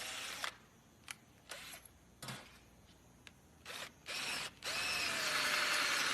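Electric drill boring a hole through the centre of a solid steel freeze plug in an engine block. It runs, stops about half a second in, and leaves a few seconds of clicks. It then starts again with a short burst and runs steadily for the last second and a half.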